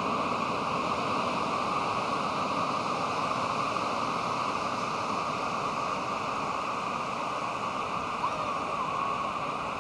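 Pacific Ocean surf on a beach: a steady, unbroken wash of waves.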